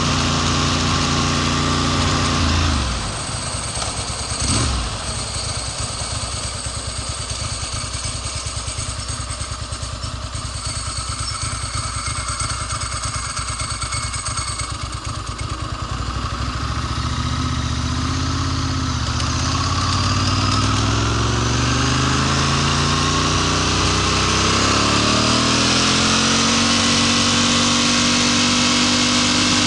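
Ducati Monster S4 motorcycle engine under way, whose note drops away about three seconds in, leaving mostly wind and road noise, with a brief blip soon after. From about seventeen seconds the engine note comes back, climbs steadily and then holds. This is the intermittent sputtering and cutting out that the owner is trying to diagnose, its cause unknown.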